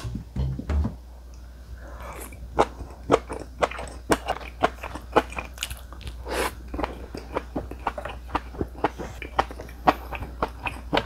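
A person chewing food close to the microphone: a run of short, irregular crunches and mouth sounds. A steady low hum sits underneath.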